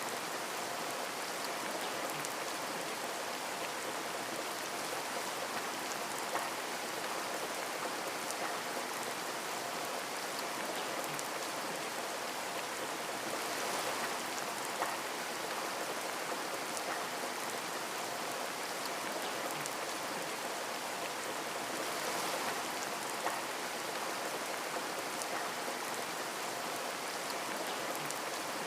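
Steady rain falling and pattering on a window pane, with scattered single drop ticks and a few louder drop hits.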